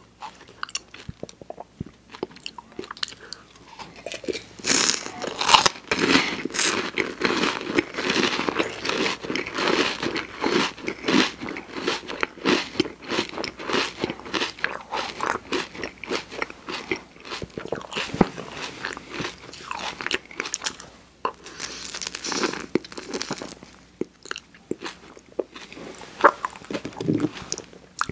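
Close-miked chewing of a crisp wafer ice cream cone with soft-serve: rapid crunching and crackling that starts a few seconds in, is loudest early on its first bites, and thins out near the end.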